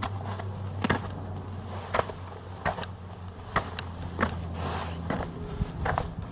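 Footsteps crunching in snow, about one step a second, over a steady low hum that stops about five seconds in.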